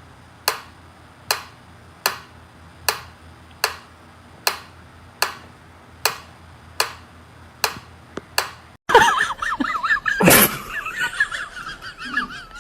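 A sharp click repeating evenly about once every 0.8 s, a dozen times. It then gives way to a wavering high-pitched sound with one loud knock.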